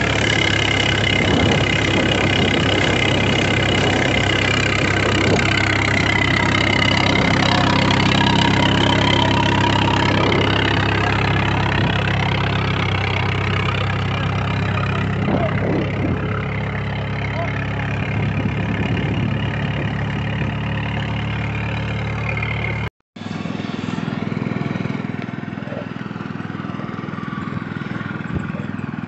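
An engine running steadily. A cut about 23 seconds in switches to another, slightly quieter engine sound.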